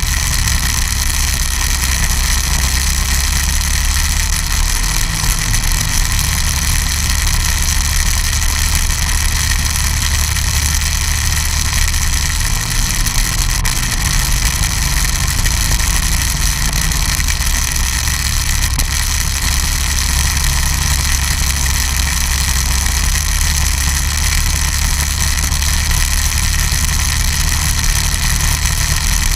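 Snowmobile engine running steadily, a loud continuous drone with a steady high whine above it.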